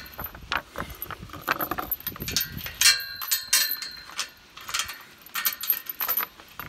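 Metal barn stall hardware being handled: a series of clanks and rattles, with one ringing clang about three seconds in.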